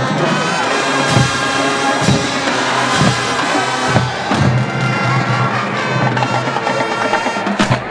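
Marching band playing: sustained brass chords over a drumline, with bass drum strokes about once a second and a sharp accented hit just before the end.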